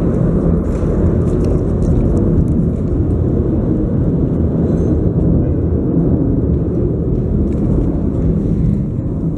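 Steady, loud low rumbling noise with no distinct events.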